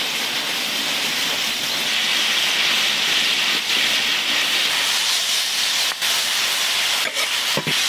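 Wild pine mushrooms and sliced cured pork frying in a hot wok with chilli: a steady, loud sizzling hiss.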